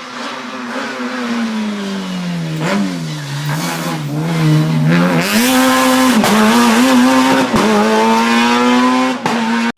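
Race car engine at a hillclimb, its pitch falling for the first few seconds as it slows, then picking up sharply about five seconds in and holding high revs with brief dips at gear changes, growing louder as it comes closer. The sound cuts off abruptly at the very end.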